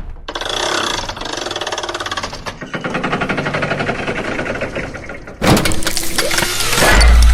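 Layered cartoon sound effects: a rapid, even ticking pattern, then about five seconds in a sudden loud burst of noise that ends with a deep rumble.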